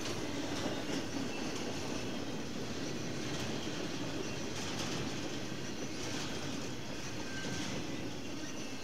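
CSX intermodal freight train rolling steadily past, its wheels clacking over the rail joints, with a faint high wheel squeal now and then.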